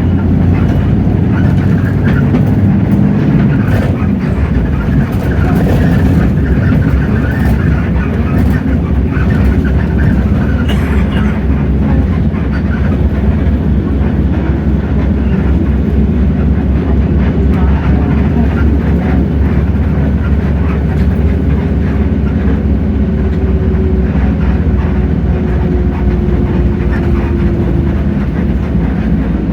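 Hino J08E-VN 7.7-litre diesel engine of a Hino city bus running under way, heard from inside the bus as a steady low drone. Cabin rattles click through the first half, and a faint whine is held near the end.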